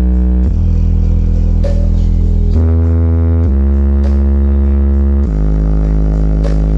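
Loud, bass-heavy electronic music blasting from a giant carnival sound system, with long deep bass notes that change pitch every second or two and a rising glide near the end.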